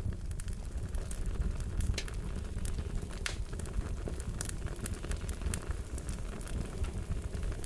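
Wood fire crackling: a steady low rumble of burning with irregular sharp pops and snaps scattered through it.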